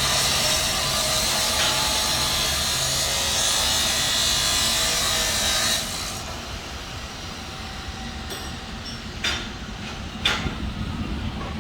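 A power tool cutting through the Monte Carlo's exhaust pipe to take the mufflers off, a loud rough grinding that runs for about six seconds and then stops. Two sharp metallic knocks follow near the end.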